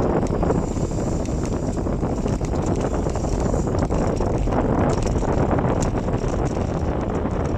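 Wind buffeting the microphone of a bicycle-mounted or handheld phone while a bicycle rolls along a wet road, with a stream of small rattles and clicks from the bike.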